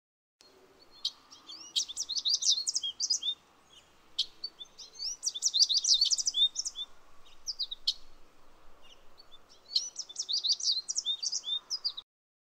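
Songbirds chirping in three bursts of rapid high notes, about four seconds apart, over a faint steady outdoor hiss. The sound starts and cuts off abruptly.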